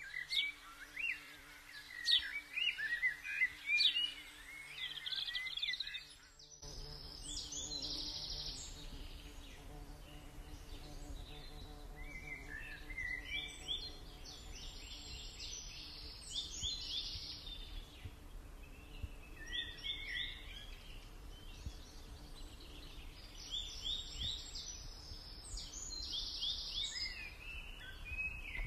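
Birds chirping and singing in repeated bouts of quick high notes, over a steady low background hum that sets in abruptly about six and a half seconds in.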